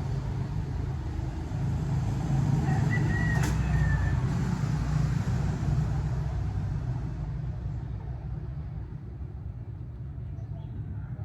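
Motorcycle engine running with road and wind noise, a steady low rumble that swells slightly and then fades over the last few seconds.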